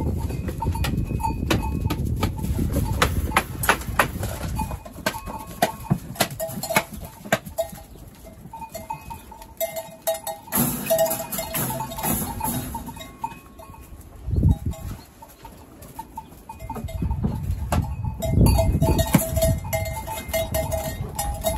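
Goat bells clanking as the goats move about, with goats bleating, over a low rumble.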